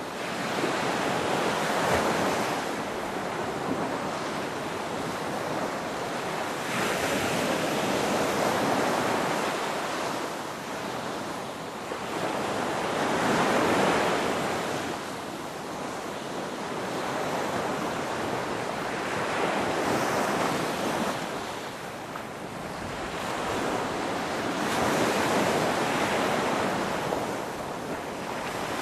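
Ocean waves breaking and washing up, a rushing surf that swells and fades about every six seconds, five surges in all.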